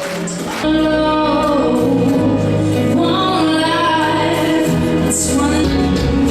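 Several voices singing together over band accompaniment. The music gets louder about two-thirds of a second in.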